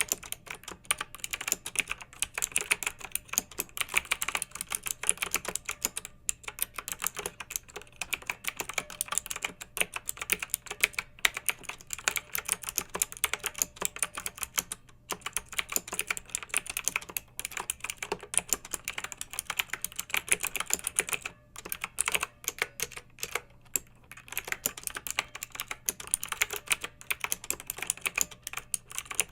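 Fast, continuous typing on a clicky mechanical keyboard, an irregular stream of sharp key clicks with a few brief pauses between bursts.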